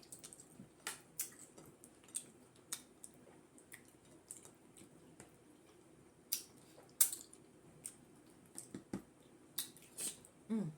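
Close-up mukbang eating sounds of fufu and peanut butter soup: irregular wet mouth clicks, lip smacks and chewing, with a brief hum near the end.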